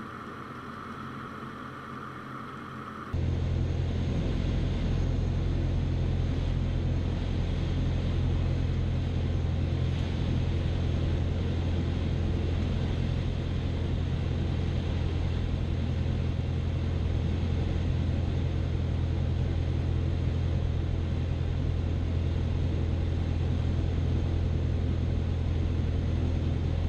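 Steady drone of a Cessna 172's piston engine and propeller heard inside the cabin. It becomes abruptly louder about three seconds in and then holds level.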